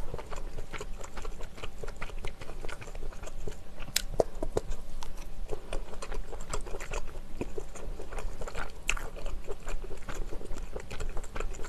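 Close-miked chewing of fuzhu (rehydrated tofu skin sticks) from stir-fried mala xiang guo, with many small clicking mouth sounds and a sharper click about four seconds in and again near nine seconds.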